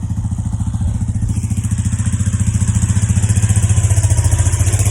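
Quad's engine idling cold just after starting, with an even pulsing beat that grows a little louder after about a second.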